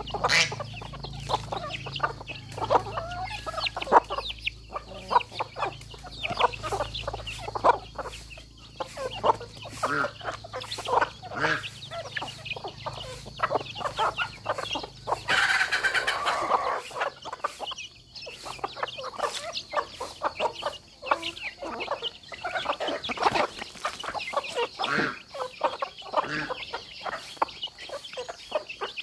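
Domestic chickens clucking over and over while foraging, with one longer, louder call about fifteen seconds in.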